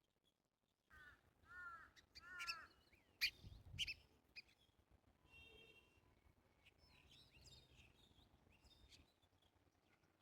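Wild birds calling: a quick run of downslurred whistled notes, then several sharp chirps and a short held note, then softer twittering, over a faint low rumble.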